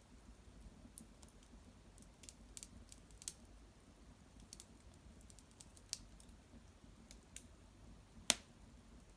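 Cedar branches and bark burning in an irori hearth fire, crackling with faint, irregular sharp pops, one louder pop near the end.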